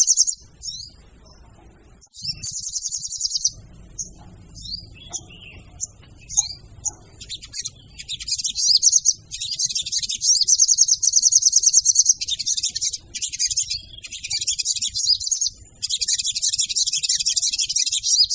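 Female sogon calling: bursts of fast, very high-pitched trilling chirps, each one to three seconds long, repeated with short gaps and scattered single chirps between them.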